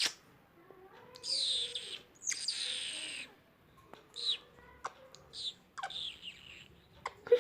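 Pet parrot calling: two long raspy calls of about a second each, then several short chirps and clicks.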